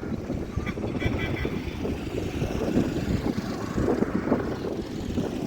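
Wind buffeting the microphone: a steady low, gusty rumble.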